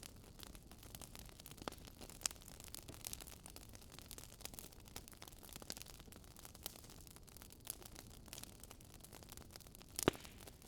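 Wood fire crackling: irregular sharp pops and snaps over a soft steady hiss, with one louder snap near the end.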